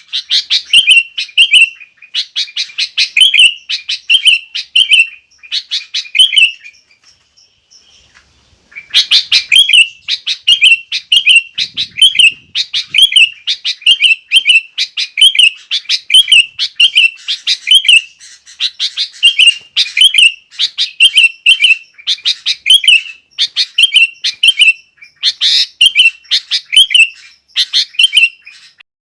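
Sooty-headed bulbul (kutilang) singing vigorously in fast, repeated chirping phrases, with a pause of about two seconds near a quarter of the way through.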